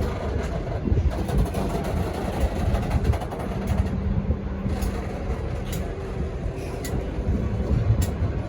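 V/Line diesel-hauled passenger train rolling through the station with a steady rumble. In the second half come sharp clicks about a second apart, wheels crossing rail joints.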